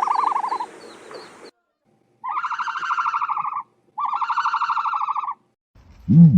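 Ostrich calls: three buzzy, rapidly pulsing calls, the first fading out within the first second and the next two lasting about a second and a half each. Near the end comes a short, much lower call.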